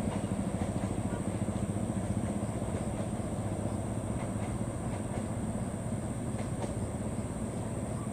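Passenger train of stainless-steel coaches rolling away over the rails: a steady low rumble with a few faint clicks.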